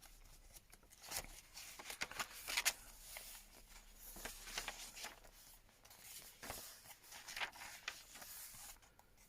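Faint rustling and soft taps of paper pages and cards being handled and turned in a handmade junk journal, in short irregular bursts.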